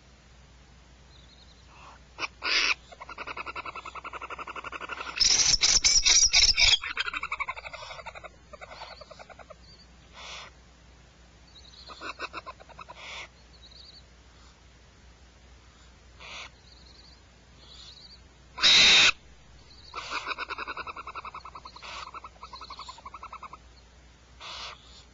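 Animal calls, most like a bird's: bouts of rapid rattling, trilling calls, with two loud harsh screeches, one about a quarter of the way in and one about three quarters in.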